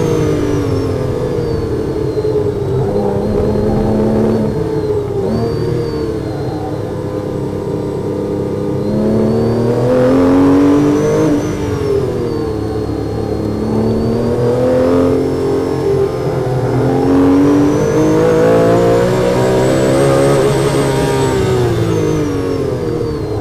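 Porsche 997 GT3's naturally aspirated flat-six engine, heard from inside the cabin during a hard track lap. The engine note falls under braking and climbs again under acceleration, several times over as the car runs through the corners.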